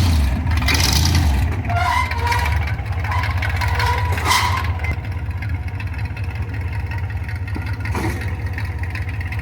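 Ford V8 engine of a custom rat rod running with a steady low rumble, with louder surges in the first second or so before it settles.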